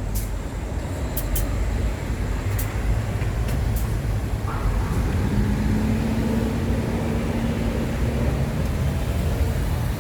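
City street traffic: a steady low rumble of passing vehicles. About halfway through, one vehicle's engine hum holds a steady tone for a few seconds, then fades.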